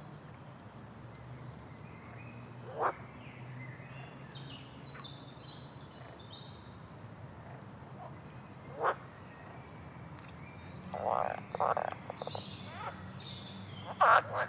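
Nature ambience of several birds chirping and giving high falling trills, with short frog croaks now and then that come thicker and louder near the end, over a faint low hum.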